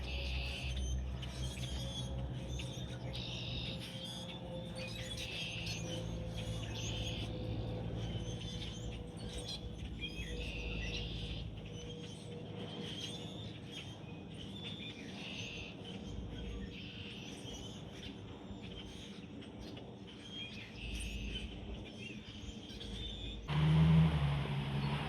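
Small birds chirping and tweeting over and over, over a low steady drone with a slowly falling tone. Near the end a louder low rumble sets in suddenly.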